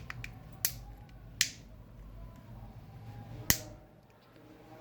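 Plastic back cover of a smartwatch being snapped into place: three sharp clicks, the second and third the loudest.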